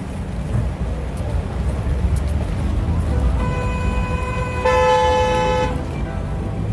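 Road traffic rumbling steadily, with a vehicle horn honking for about two seconds midway, louder in its second half.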